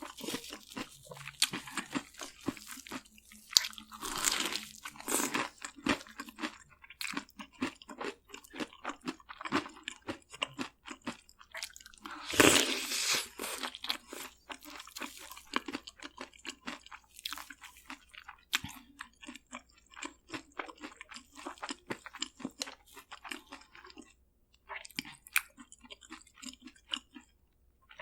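A person biting, crunching and chewing crispy fried food close to the microphone, in many short irregular crunches. A louder crunch comes about twelve seconds in.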